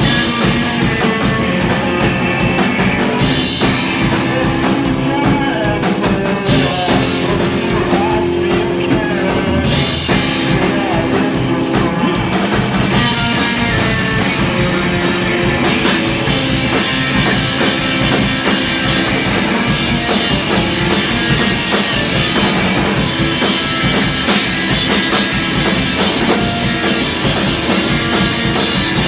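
Live rock band playing a song loud, with drum kit and electric guitar; the cymbals come in brighter about halfway through.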